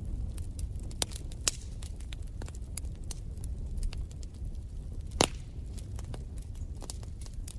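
Wood fire in a fireplace crackling, with irregular sharp pops over a low steady rumble of the flames; the loudest pop a little after five seconds in.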